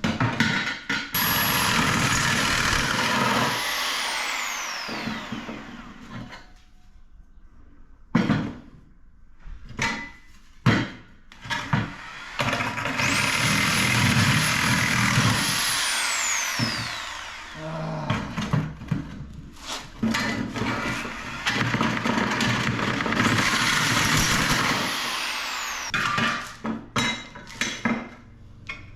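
Hand-held power tool run in three bursts, each with a high whine that falls in pitch as the motor winds down when it stops. Sharp knocks come in the gaps between the bursts.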